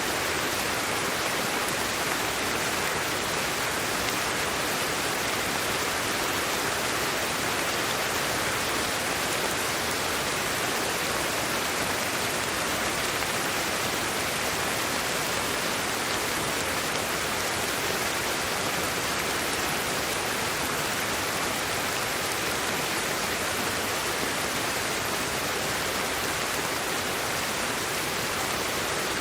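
Steady, unbroken white noise for sleep: an even hiss that is brightest in the upper range and thin in the bass, with no changes, drops or rhythm.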